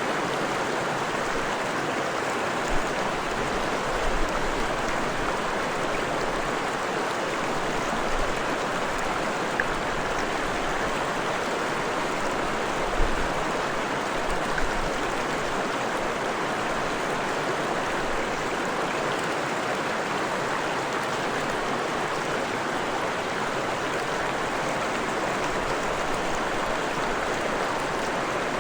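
Forest stream flowing in a steady, even rush of water, with a few brief low bumps now and then.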